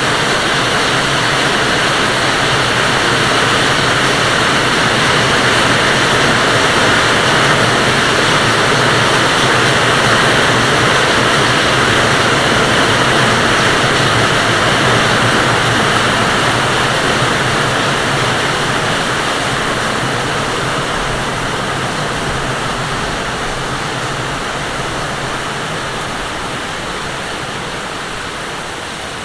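Loud, steady rushing of flowing water, swelling to its loudest about ten seconds in and then slowly fading toward the end.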